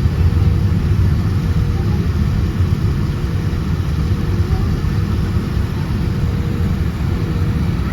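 Steady low rumble of a Boeing 787-10's engines and airflow heard inside the cabin, with a faint steady hum above it.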